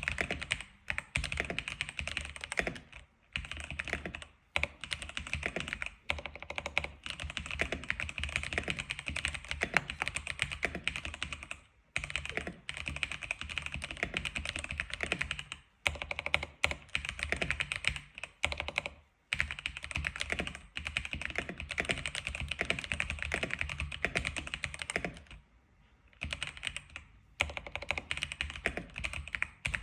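Typing on an X87 keyboard: a fast, continuous run of key clicks, broken by a few brief pauses and a longer pause of about two seconds near the end.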